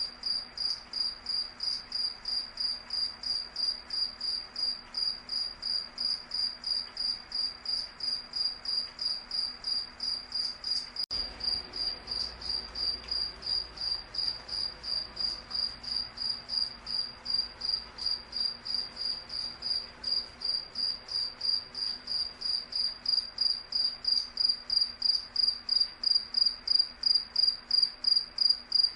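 A cricket chirping, one high clear pitch repeated in an even rhythm of about three chirps a second, growing louder near the end.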